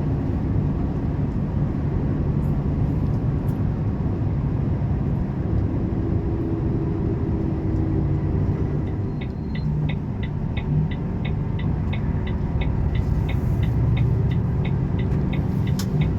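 Volvo 450 truck's diesel engine and road noise, a steady rumble heard inside the cab at speed. About nine seconds in, the turn-signal indicator starts ticking at an even pace of about three clicks a second, ahead of an overtake.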